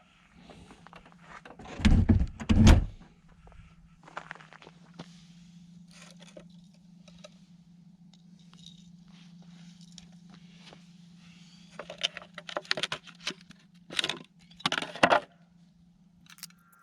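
Two heavy thumps about two seconds in, then rattling clinks and knocks near the end, over a steady low hum.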